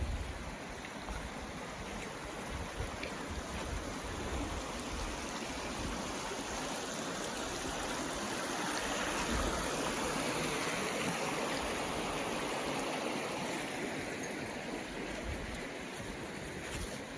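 A stream running steadily, its rushing growing louder toward the middle and easing again near the end.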